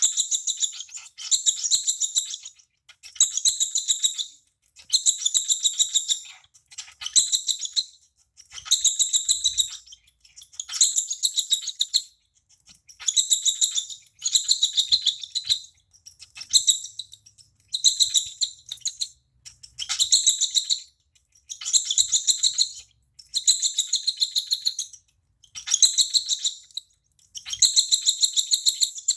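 Two-month-old baby cockatiel giving its food-begging call while being hand-fed: bursts of rapid, raspy pulsed chirping about a second long, repeated roughly every second and a half.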